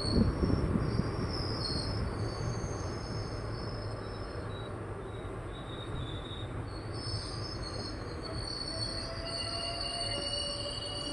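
Express passenger train running slowly into a station, a steady low rumble with thin, high wheel and brake squeals that come and go as it slows to a stop.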